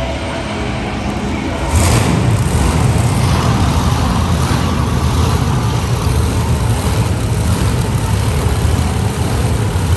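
Monster truck engine suddenly coming in loud about two seconds in, then running hard with a steady deep rumble.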